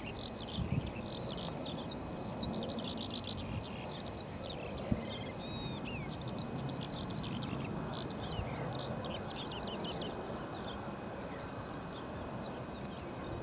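Songbirds singing in quick chirps and short whistled notes, dense through most of the stretch and thinning near the end, over a steady low rushing noise.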